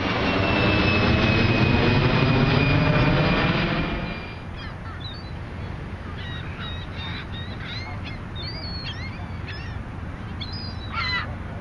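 Jet airliner passing low overhead, loud, with a slowly falling whine, then fading out about four seconds in. After it, birds call in short bursts, one louder call near the end.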